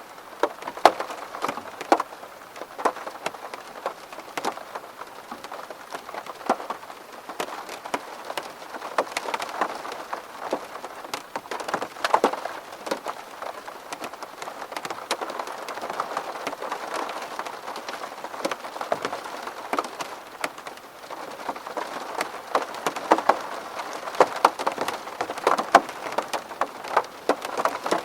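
Rain falling on a window: a steady hiss with many separate drops striking the pane at irregular moments.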